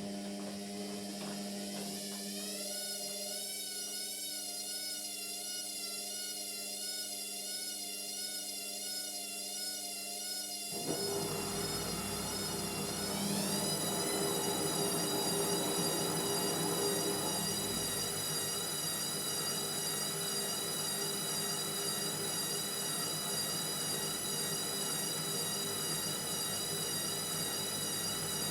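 Indesit MyTime washing machine's motor winding the drum up to spin: a wavering whine that climbs in pitch about two seconds in and again about thirteen seconds in, then holds high. A rushing noise joins about eleven seconds in.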